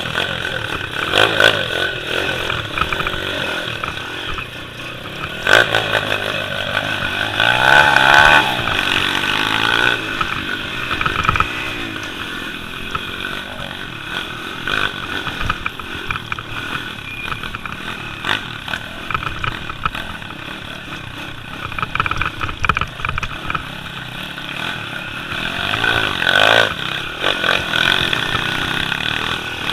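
Small pit bike engine running hard, revving up and down with rattling clatter. It surges loudest about six, eight and twenty-six seconds in.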